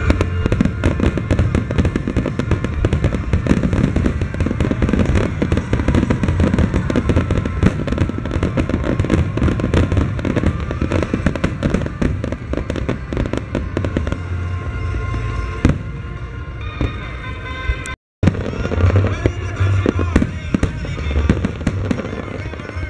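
Aerial fireworks shells bursting in a dense, rapid barrage of bangs and crackles. The sound cuts out briefly about eighteen seconds in.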